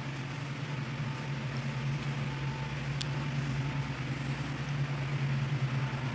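1968 Ford Mustang fastback's engine running steadily at an even speed, with one brief click about three seconds in.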